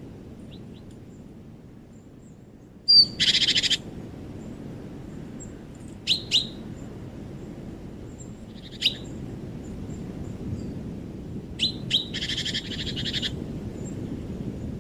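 Songbird calls in a forest: a few sharp, falling chip notes, singly and in pairs, and two harsh, buzzy chattering calls about a second long, one after the first few seconds and one near the end. A steady low background rumble runs underneath.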